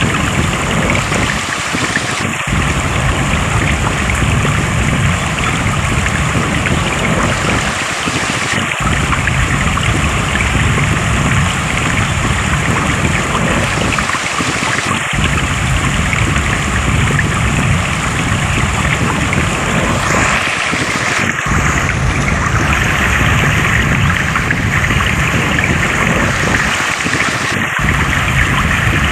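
Flowing water rushing steadily and loudly, like a stream, its low rumble thinning briefly about every six seconds.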